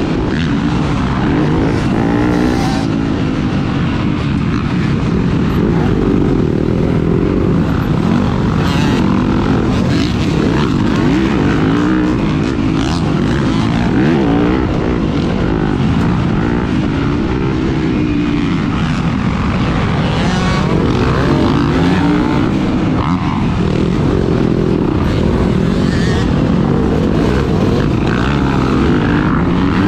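Dirt bike engine revving up and down over and over as it is ridden hard, the pitch climbing and dropping through the gears, with some scattered knocks.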